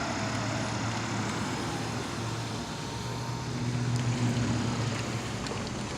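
Steady low rumble of an Amtrak passenger train still some way off, approaching the station, swelling slightly about four seconds in.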